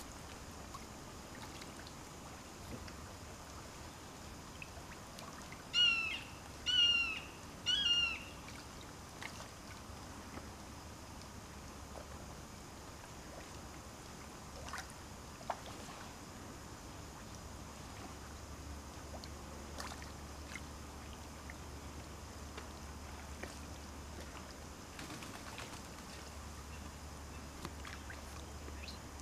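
A bird calls three times in quick succession, about a second apart, each call a short pitched note.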